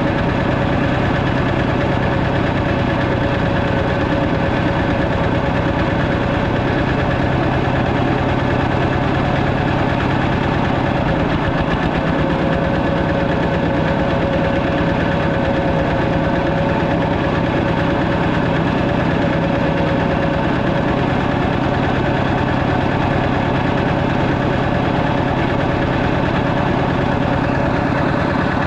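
Walking tractor's single-cylinder diesel engine running steadily, with a fast even knock.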